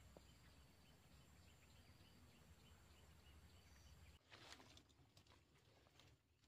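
Near silence: faint outdoor ambience with a thin steady high hum and faint regular ticks, then a short rustle about four seconds in.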